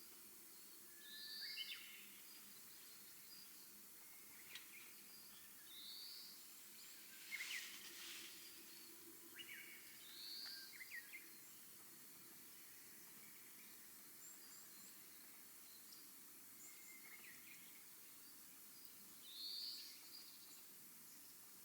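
Faint bird calls over a quiet outdoor background: a short high chirping call comes about four times, several seconds apart. A brief faint noise about seven seconds in is the loudest moment.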